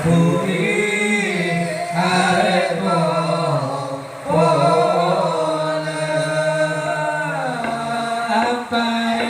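A man chanting a Madurese sholawat solo, in long, wavering held notes with brief breaths about two and four seconds in.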